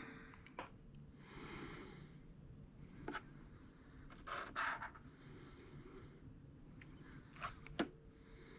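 Quiet hand work: a few small clicks and taps of parts being handled, with soft breaths through the nose every couple of seconds between them.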